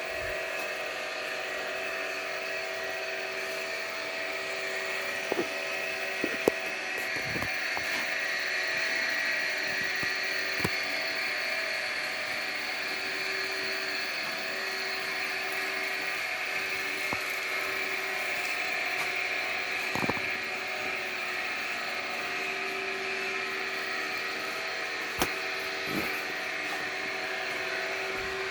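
A machine running steadily with a whining drone made of several even tones, with a few scattered clicks and knocks.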